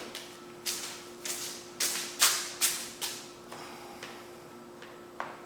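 A run of short rustling and clattering handling noises, about six in the first three seconds and one more near the end, over a faint steady hum.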